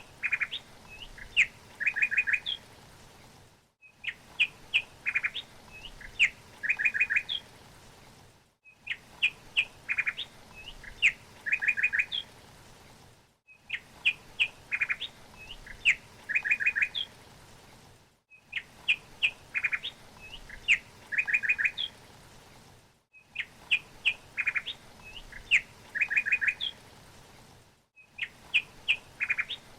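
A songbird's short phrase of chirps ending in a quick trill, the same recorded phrase repeating about every five seconds with a brief silent gap between each.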